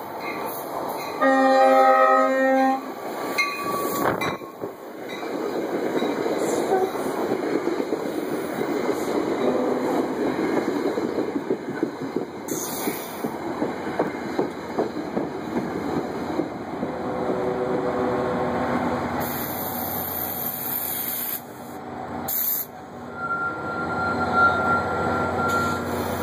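Nathan K5LA five-chime horn (chimes 1L, 2, 3A, 4A, 5) on a New Jersey Transit Comet V cab car sounds one short blast with an unusual chord, then the passenger cars pass close by with a long, steady rumble of wheels on rail. A steady high tone sounds near the end.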